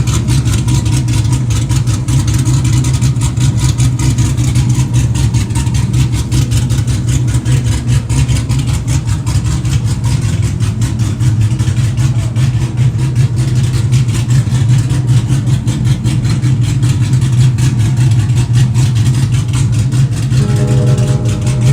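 A car engine running steadily and loudly with a deep, rapidly pulsing exhaust note. Faint steady tones come in near the end.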